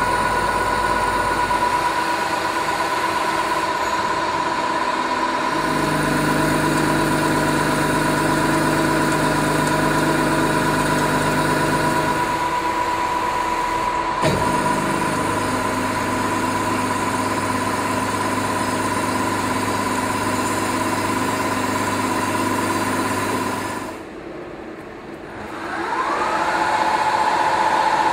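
Knuth BO 130 CNC drilling-milling machining center running: a steady high motor whine over low hums that change in pitch every few seconds. Near the end the sound drops away briefly, then a rising whine comes in as a drive speeds up.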